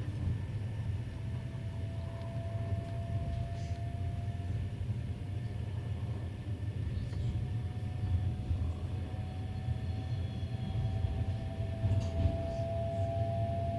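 Passenger train running, heard from aboard: a steady low rumble with a thin whine that slowly rises in pitch, a second whine joining it about halfway through.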